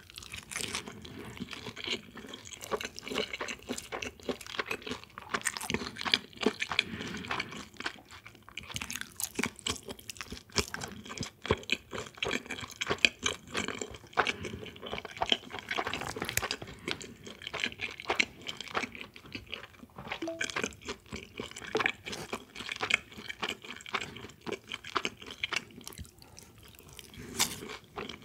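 Close-miked eating sounds: wet chewing and slurping of noodles in cold soybean-milk broth (kongguksu), with some crunchy bites, as a run of irregular clicks and smacks.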